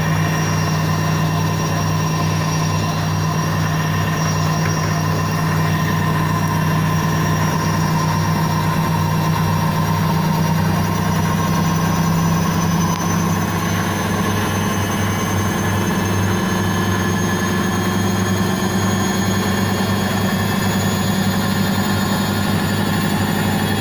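Indesit IWSC5085 washing machine spinning its drum at speed: a steady motor whine with a constant drone, whose pitch rises slightly about halfway through as the spin speeds up.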